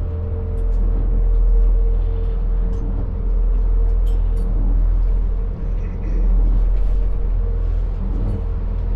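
Boat engines running steadily under way: a constant low drone with a steady hum over it.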